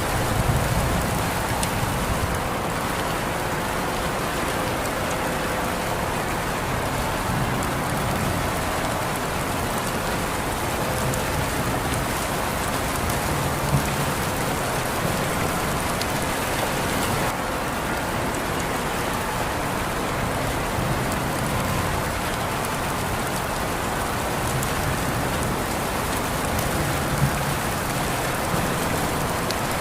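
Steady rain falling, a dense even hiss of drops, with a couple of brief sharper drop clicks about halfway through and near the end.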